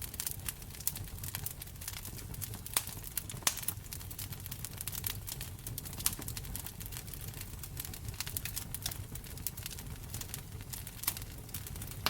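Wood fire crackling in a fireplace: a steady low rumble under frequent irregular snaps, with a few louder pops.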